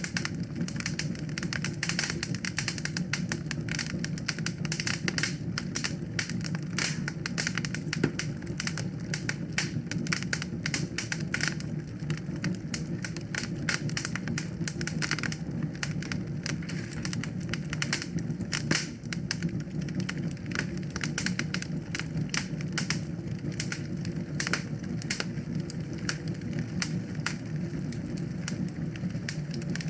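Wood fire crackling in a fireplace: dense, irregular pops and snaps over a steady low rumble of flame.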